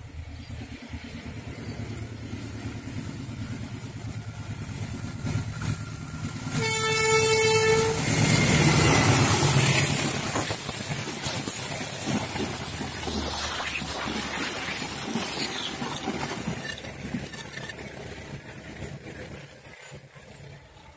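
A diesel-hauled passenger train approaches a level crossing, its engine rumble building. About a third of the way in, the locomotive sounds one horn blast of over a second. The coaches then pass close by with wheels clacking over the rail joints, and the sound fades as the train moves away near the end.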